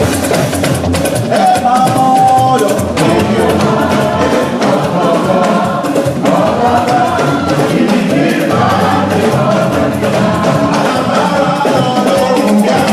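A group of voices singing a gospel song together, accompanied by drums and hand percussion with a steady beat.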